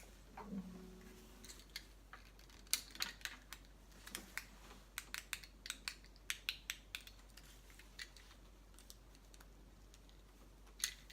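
Faint, irregular sharp clicks and taps, many of them scattered through, with a brief low hum about half a second in.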